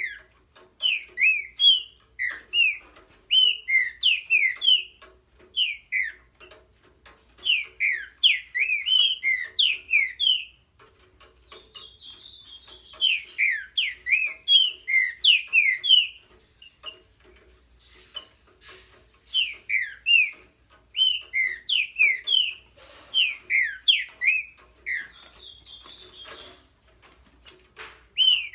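Green-winged saltator (trinca-ferro) singing in full voice: repeated bouts of loud, quick down-slurred whistled notes, each bout a few seconds long with short pauses between.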